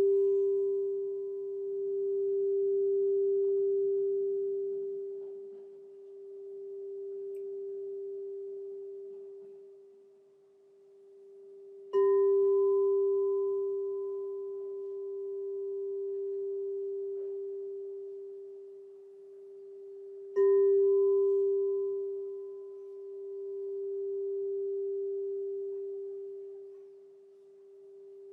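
A crystal singing bowl ringing with one pure, steady tone, struck twice, about 12 and 20 seconds in, each strike a sharp onset that then rings on. Between strikes the tone swells and fades in slow waves.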